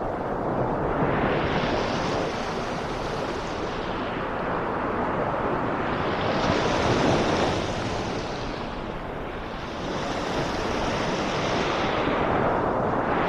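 Ocean waves breaking and washing ashore with rain falling: a dense, steady hiss that swells and eases in slow surges every five or six seconds.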